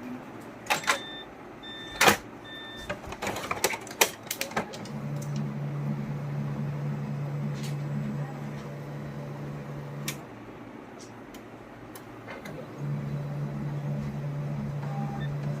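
Canon laser printer with a new FX-9 toner cartridge running its start-up cycle: a few clicks and three short beeps, then a steady motor hum that stops after about five seconds and starts again a couple of seconds later. It runs without the knocking the worn-out cartridge caused, sounding like a new printer.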